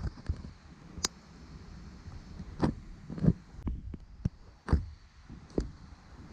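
A few scattered light knocks and clicks, about six spread over several seconds, over a low background.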